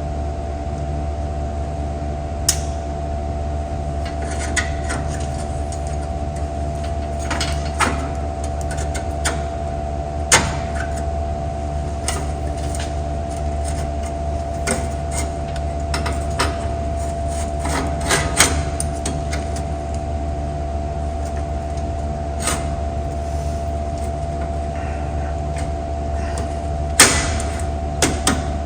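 Scattered clicks and knocks of metal parts being handled on a car door's window roll-up mechanism, with a sharper cluster of knocks near the end, over a steady machine hum.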